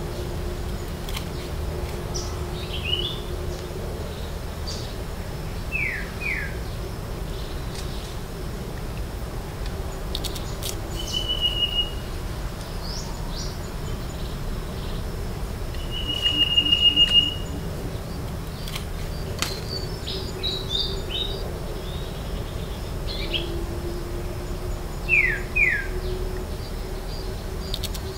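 Wild birds calling in the background: scattered short high chirps, two pairs of quick falling whistles, and twice a brief rapid trill, over a steady low rumble of background noise. A few faint clicks come through as well.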